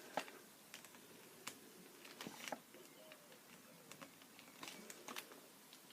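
Faint, scattered light taps and clicks of a marker pen on paper while drawing, a few separate ticks a second or so apart.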